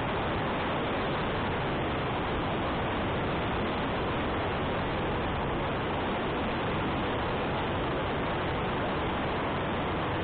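Steady wind noise rushing over the microphone of a motorcycle riding uphill, with the bike's engine mixed in underneath.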